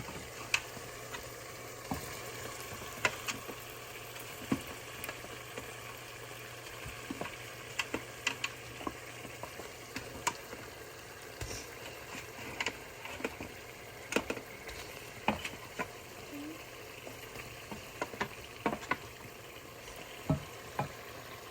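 Pepper sauce sizzling steadily in a pot as air-fried chicken pieces are put in and stirred, with a spoon knocking and scraping against the pot at irregular intervals.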